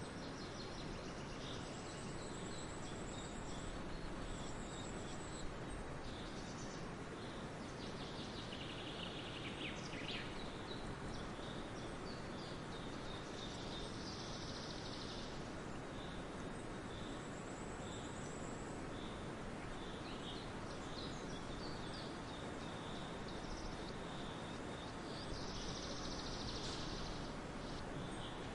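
Several forest birds calling and singing: a high thin trill heard twice, and many short chirps repeated throughout. Behind them is a steady background hiss.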